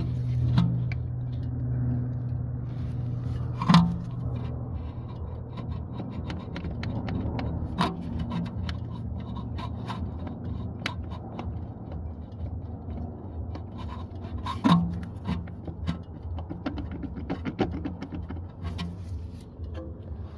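Audi A4 running with a steady low hum, broken by loud single knocks about four, eight and fifteen seconds in and by many lighter clicks and scrapes. The knocking is a sign of drive shaft trouble and gearbox damage.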